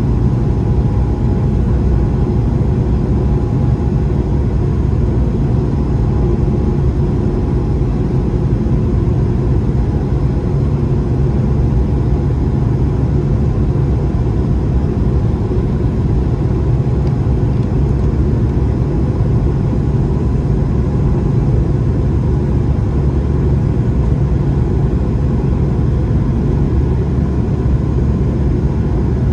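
Airbus A220 airliner after takeoff, with the steady, even rumble of its Pratt & Whitney PW1500G geared turbofans and rushing air, and a faint steady whine above it.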